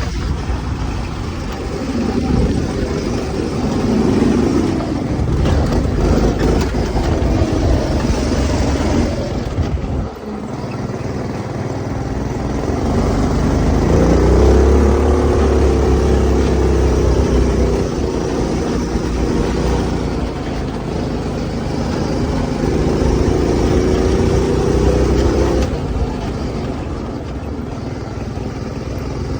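196 cc single-cylinder four-stroke go-kart engine fitted with a 30 mm aftermarket carburetor, running hard under throttle while the kart is driven. The engine note rises and falls as the rider accelerates and eases off. It drops briefly about ten seconds in, then climbs again a few seconds later.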